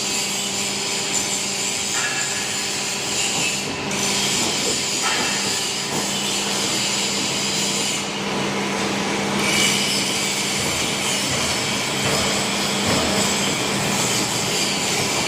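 CNC hydraulic profile bending machine running: a steady hum with a rough scraping noise over it as a steel tube is rolled through the bending rollers.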